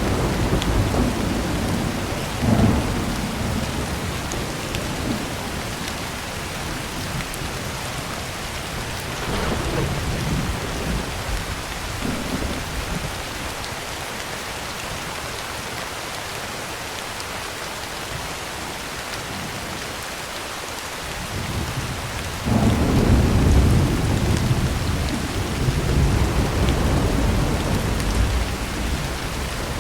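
Heavy rain falling steadily on a tin roof, with rolling thunder: a sharp clap about two and a half seconds in, fainter rumbles a few seconds later, and a loud, long rumble that begins about two-thirds of the way through and runs on.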